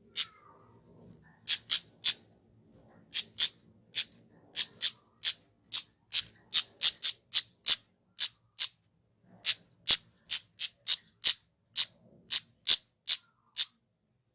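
Kemade (flowerpecker) giving a rapid series of short, sharp, very high 'tsit' calls, irregularly spaced at about two or three a second and often in quick pairs or triplets, with brief pauses in between.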